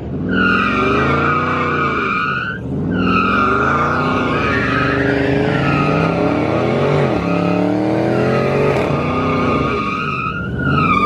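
A car sliding with its tires squealing continuously, a high screech that dips briefly a few times. Under it the engine revs up and falls back over and over, about every two seconds.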